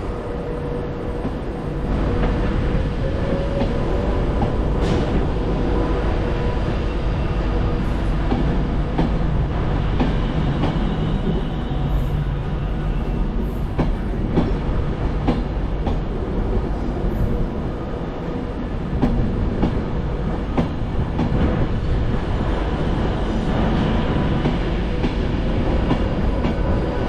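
Train running through the station, its wheels clicking steadily over rail joints under a continuous rumble, getting a little louder about two seconds in.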